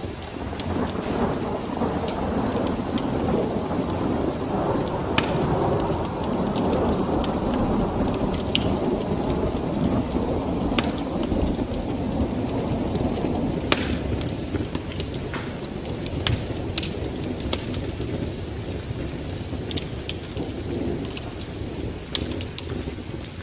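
Rainy thunderstorm ambience: a low rolling rumble of thunder that swells over the first half and then eases, under steady rain, with scattered sharp crackles and pops from a wood fire.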